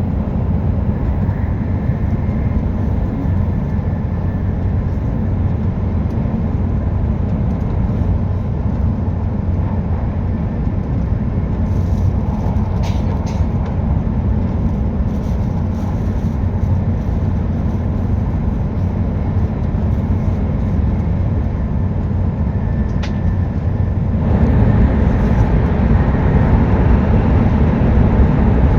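Hokuriku Shinkansen E7/W7-series train running at speed, heard inside the passenger cabin as a steady low rumble and rush. The rumble steps up louder a few seconds before the end.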